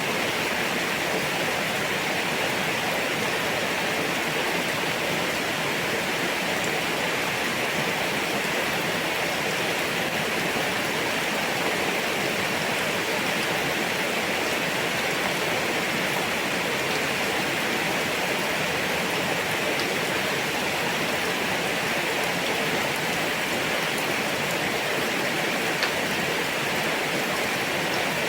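Steady heavy rain falling, an even unbroken hiss with a few faint drop ticks.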